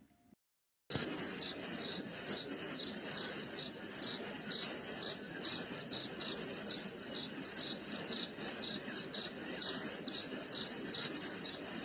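FUNYKICH white noise machine playing its cricket sound: rhythmic cricket chirping over a steady hiss, starting suddenly about a second in after a short silence.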